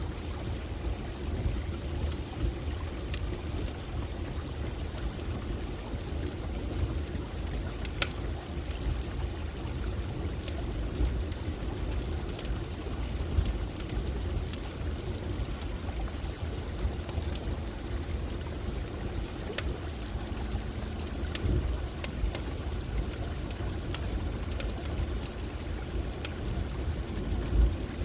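Steady rush of running water with a campfire crackling over it, its scattered sharp pops sparse and irregular, the clearest about a third of the way in.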